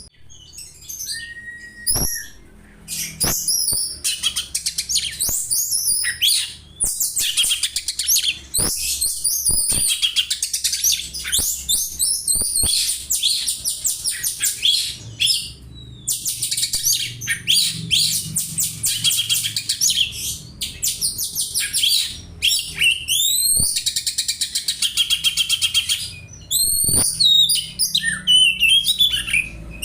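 Oriental magpie-robin (kacer) singing a long, fast, high-pitched run of chirps and trills that imitates sparrow chatter, broken by a few short pauses.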